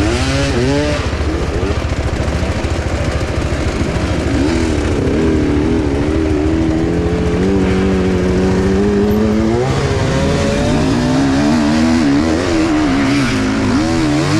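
Enduro motorcycle engine running under a rider, its revs rising and falling and wavering as the throttle is worked.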